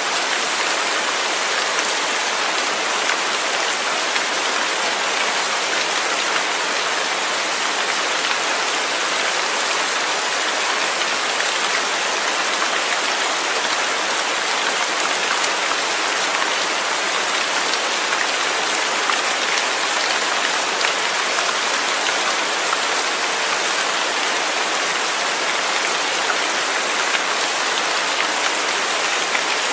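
Steady rainfall, a dense even hiss of drops falling with fine patter and no change in intensity.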